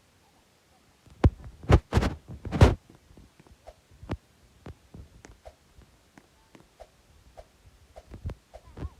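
A quick run of four or five dull thumps about a second in, followed by scattered light clicks and taps.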